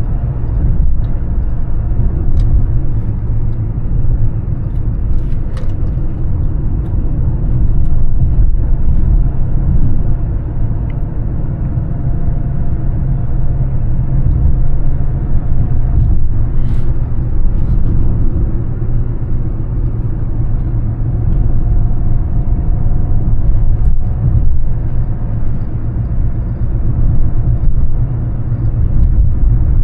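Mercedes-Benz E320 CDI turbodiesel engine running under way with tyre and road noise: a steady low rumble with a few faint clicks.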